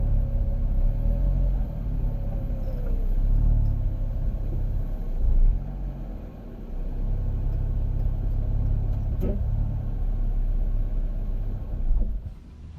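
2019 Jeep Wrangler JL V6 running and moving with a low rumble, with a single sharp click about nine seconds in. The click is the rear clicking that comes when the wheels are turned or the Jeep rolls forward or back, which the owner has not yet traced.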